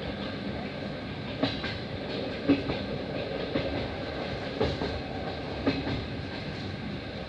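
Passenger train running along the track, a steady rumble with a few sharp knocks as the wheels go over rail joints.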